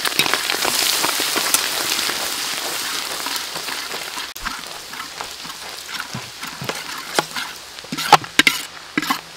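Tomato sauce frying in hot oil in a wok: a dense crackling sizzle that slowly dies down, with a few sharp pops near the end.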